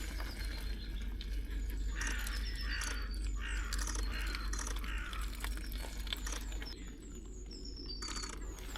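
Small birds chirping and calling over one another, many short high chirps that drop in pitch, busiest between about two and four seconds in, over a steady low rumble.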